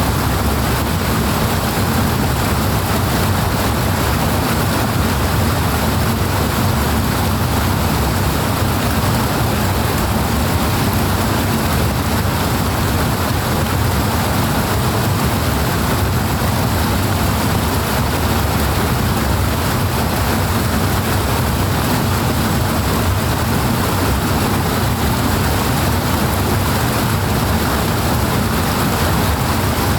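Powerful rushing water, a steady unbroken rush with no distinct splashes or changes.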